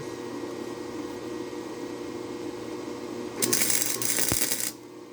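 A steady electrical hum, then an arc welder striking an arc on steel about three and a half seconds in: a loud crackling sizzle for a little over a second that cuts off suddenly.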